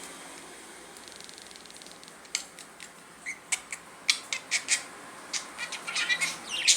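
Budgerigar chattering: a fine buzzing rattle about a second in, then a run of sharp clicks and short high chirps that grows busier toward the end.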